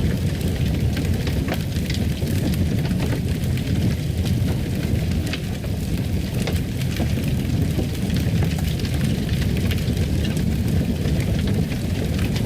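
Fireplace fire crackling: a steady low rumble with frequent small pops and snaps scattered throughout.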